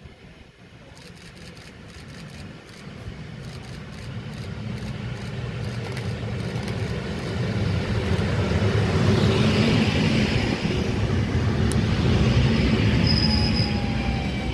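EN57AKM electric multiple unit pulling into the station and slowing to a stop: a low rumble of wheels on rails that grows steadily louder as it approaches, then holds. A thin, high brake squeal starts near the end.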